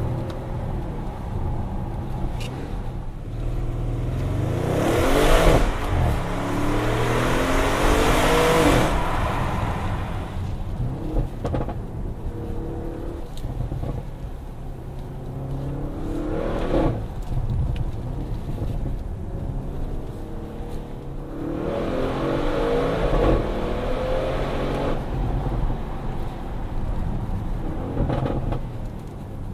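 Audi RS6 C7 Performance's twin-turbo 4.0 V8 driving, with its pitch climbing on several hard pulls through the gears: the longest and loudest about four to nine seconds in, shorter ones around sixteen seconds, about twenty-two to twenty-five seconds and near the end, easing back to a steady lower drone between them.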